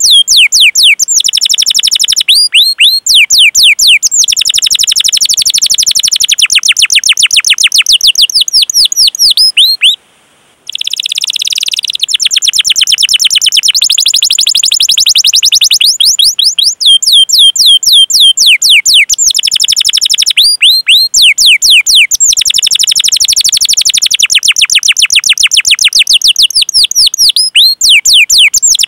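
Domestic canary singing: long runs of rapid repeated down-slurred 'cuit cuit' chirps running into dense rolling trills. It breaks off briefly about ten seconds in.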